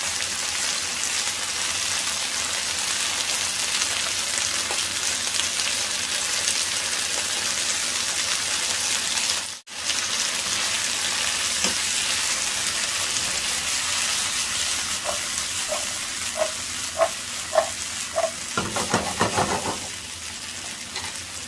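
Fresh green beans sizzling steadily in olive oil in a nonstick frying pan. The sound briefly cuts out just before halfway. In the last few seconds there are a few short taps, then a clatter of the beans being stirred in the pan.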